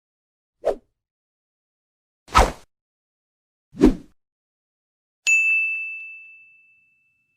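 Sound effects in sequence: three short, dull hits, then a single bright bell ding that rings on one tone and fades over about a second and a half.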